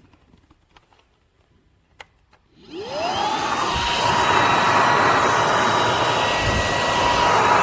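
Fabuletta cordless stick vacuum switching on: a few light clicks, a sharper click about two seconds in, then the brushless motor spins up with a quickly rising whine. The motor settles into a steady high-pitched run with loud airflow noise.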